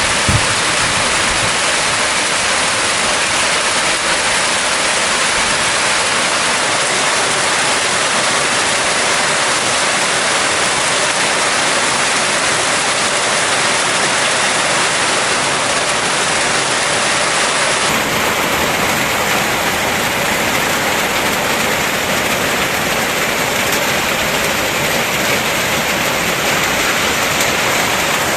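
Heavy rain falling steadily in a dense hiss.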